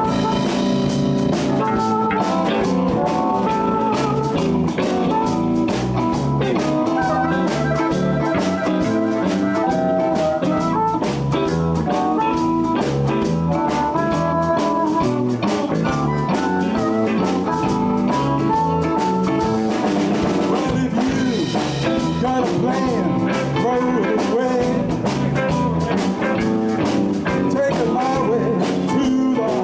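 Live blues band playing an instrumental shuffle intro in A on electric guitars, bass and drum kit, right after a count-in.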